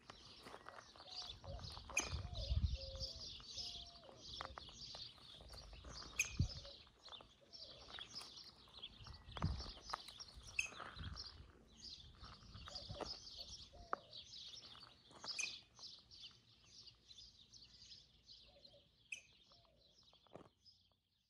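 Many small birds chirping and singing without a break, with occasional footsteps and low thumps from someone walking on gravel and dirt.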